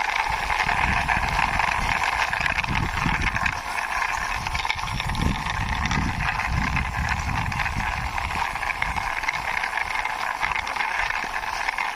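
Wheels of a toy police jeep rolling and rumbling unevenly along a wall as it is pushed by hand, over a steady background hiss.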